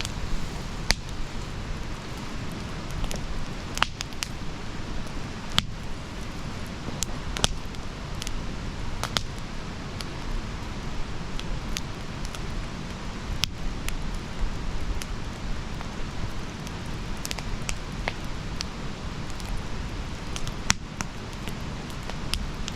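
Wood campfire crackling: irregular sharp pops and snaps, a few of them louder, over a steady low rumble of the burning fire.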